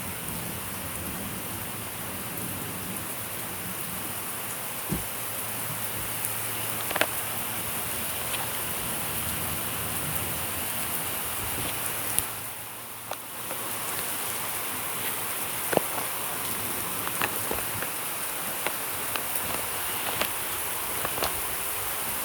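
Heavy rain pouring down steadily, with the sharp taps of individual drops striking nearby surfaces scattered throughout. The downpour briefly eases about thirteen seconds in.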